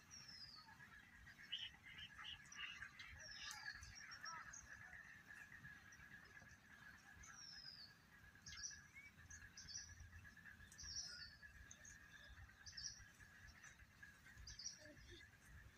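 Faint calls of small wild birds: scattered short chirps and a few quick falling whistles, over a steady faint high-pitched hum.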